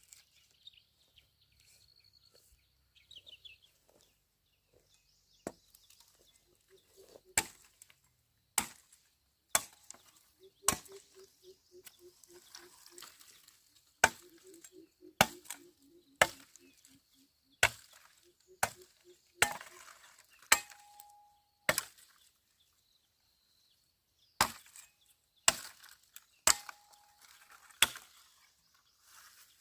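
A blade chopping bamboo: a series of sharp, loud chops, about one a second, starting a few seconds in, with a short pause near the end.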